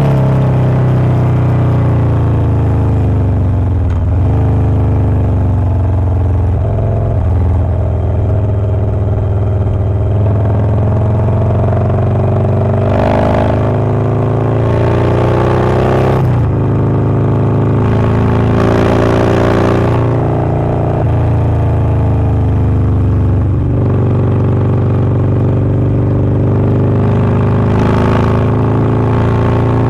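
Harley-Davidson Low Rider S's 117 cubic-inch Milwaukee-Eight V-twin, fitted with a Wood Performance 777XE cam, running on the move. The engine note rises and falls again and again through the stretch.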